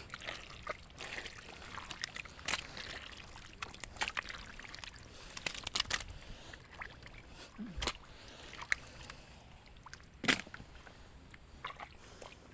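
Irregular splashing and sloshing in the shallow water of a pond pumped nearly dry for fish catching, with one sharper splash about ten seconds in.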